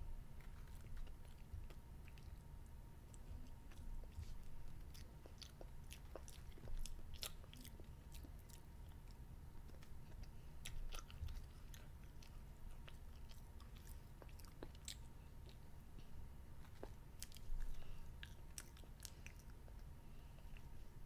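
A child chewing and crunching candy, with many short crackly crunches at irregular intervals.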